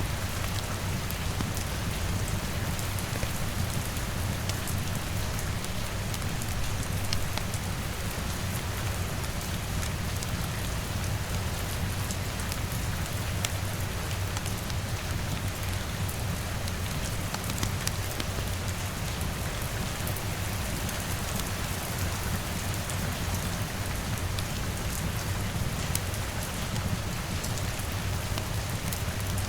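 Steady rain pattering, mixed with scattered sharp pops and ticks from a crackling wood fire, over a low steady rumble.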